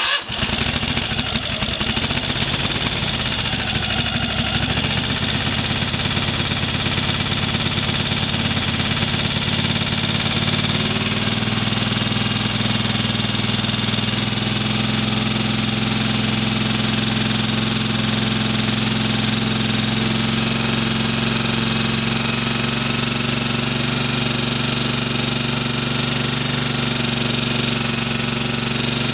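Kohler 22 hp twin-cylinder engine running steadily just after starting, its speed settling in the first several seconds and then holding even.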